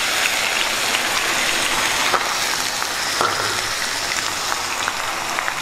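Onion paste sizzling as it is poured into hot oil in a kadai with green chillies: a steady hiss with a few faint pops.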